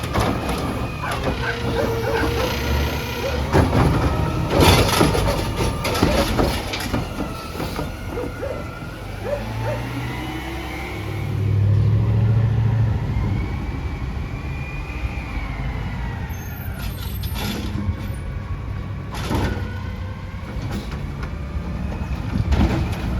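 Autocar ACX garbage truck's engine running, swelling about halfway through with a rising and falling whine. Several sharp bursts, like air-brake hiss or clanks, come near the start and again near the end.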